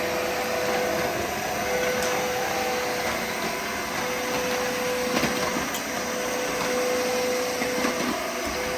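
Aspiron CA-022 cordless wet-dry vacuum mop running in mop mode, a steady motor whine over rushing air, with a brief knock about five seconds in.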